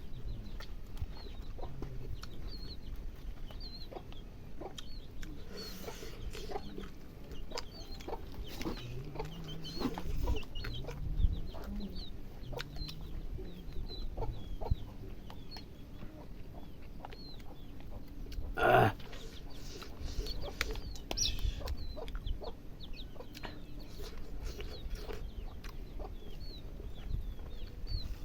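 Chickens clucking, with many short high chirps throughout and one loud short call about two-thirds of the way through. Light clicks run underneath.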